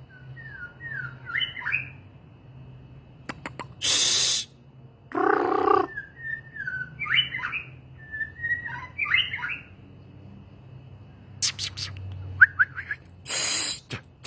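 A songbird singing short whistled phrases of sliding, twisting notes, broken several times by loud, harsh rasping calls.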